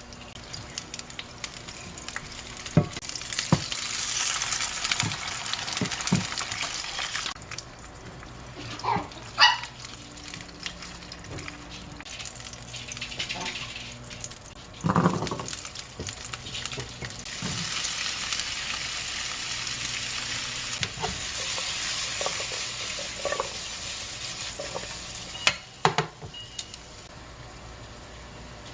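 Food frying in a pan, sizzling in two stretches, the second longer, with scattered knocks and clatter in between.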